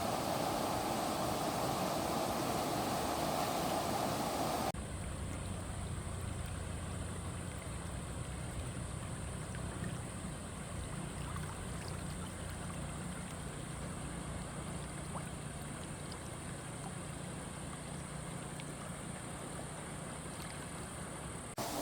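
Fast-flowing stream water rushing steadily. About five seconds in it cuts abruptly to a duller, deeper rumble of water.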